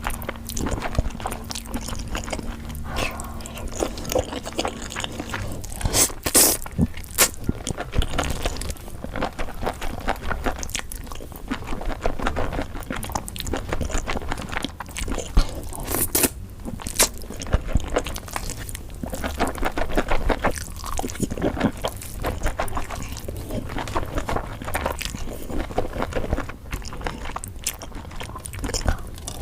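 Close-miked mukbang eating sounds: a person biting and chewing food with irregular crunches and wet mouth clicks, continuing without pause.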